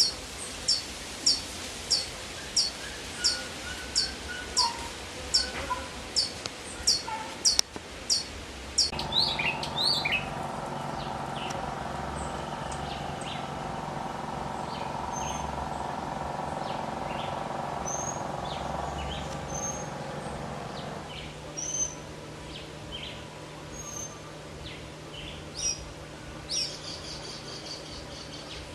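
Songbirds calling: one bird repeats a short, high, falling note about one and a half times a second for roughly eight seconds. After that come scattered high chirps over a steady hum.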